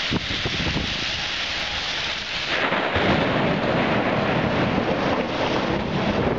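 Storm noise of heavy rain and gusting wind: a steady rush that thickens and grows louder about two and a half seconds in.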